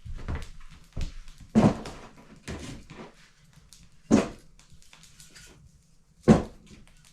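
Split firewood logs set down into a wood box: three heavy wooden thuds about two seconds apart, with lighter knocks between them.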